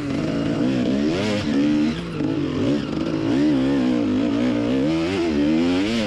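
KTM 300 EXC's single-cylinder two-stroke engine being ridden hard, its revs rising and falling constantly with the throttle.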